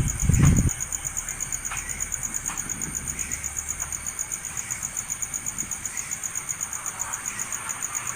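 Insects trilling high and steady in a fast, even pulse, with a couple of low thumps at the start and a few faint short chirps.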